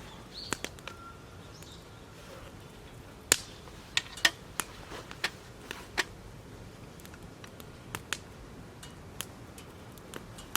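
Wood crackling and snapping: scattered sharp pops at irregular intervals, the loudest few near the middle.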